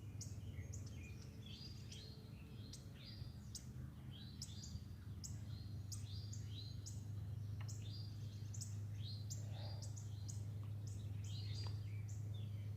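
Several songbirds chirping and singing together, many quick downward-sliding notes overlapping one another, over a steady low hum.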